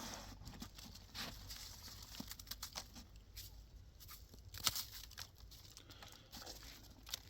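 Irregular rustling and crinkling with scattered soft knocks of things being handled and moved, with one sharper knock a little past the middle.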